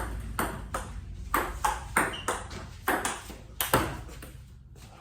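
Table tennis rally: the celluloid-type ball clicking back and forth off paddles and table, about two or three hits a second, stopping about four seconds in.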